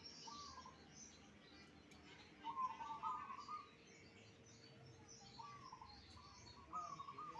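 Caged songbirds singing: short phrases of a few stepped notes, repeated several times, over faint high twittering from other birds.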